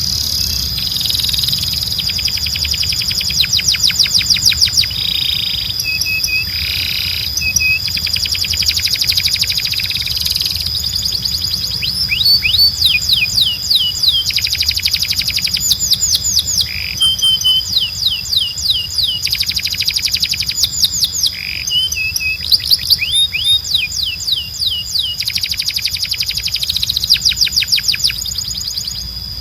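Timbrado canary singing in long trills: fast runs of repeated falling notes in phrases one to two seconds long, broken by a few short held notes. A steady high tone and a low hum lie underneath.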